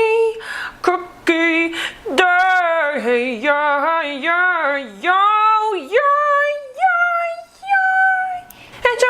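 A woman's voice singing wordless, warbling vocal runs with strong vibrato and sliding pitch, with no instruments.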